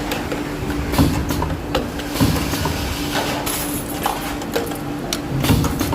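Pneumatic spot welding machine cycling over a steady hum. Sharp clunks and short air hisses come roughly once a second as the electrodes press down and release.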